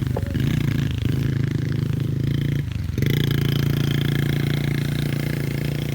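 Small 110cc single-cylinder four-stroke pit bike engine running at a steady throttle, cut off briefly about three seconds in and then back on.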